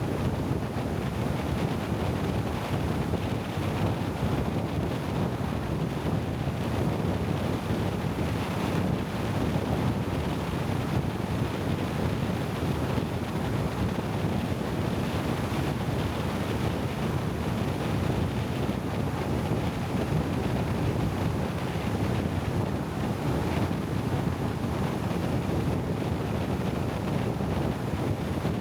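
Steady rushing noise with a low rumble, like wind buffeting the microphone while moving, even in level throughout with no distinct knocks or engine tone.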